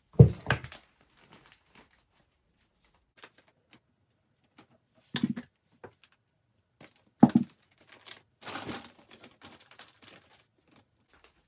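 Handling noise from a finished gift basket: a few knocks, one near the start and two in the middle, then a short burst of crinkling like plastic wrap near the end.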